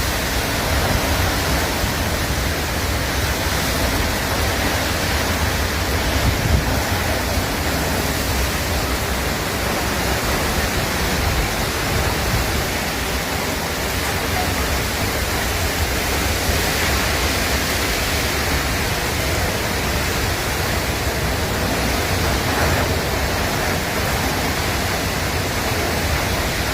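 Storm of heavy rain and strong wind, a steady, even rushing noise with a heavy low rumble.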